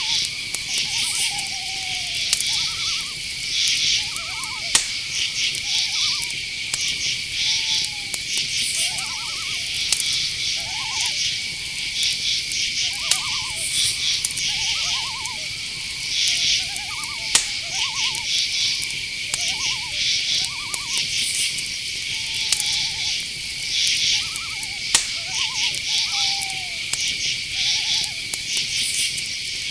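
Night forest ambience: crickets and other insects keep up a steady high trill with pulsing chirps, while owls call over it in many short notes, some gliding up or down. A few sharp clicks stand out.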